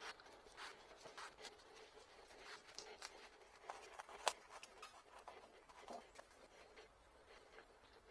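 Faint scratching and light clicks of small hand tools and wood being handled on a workbench, with one sharper tap about four seconds in.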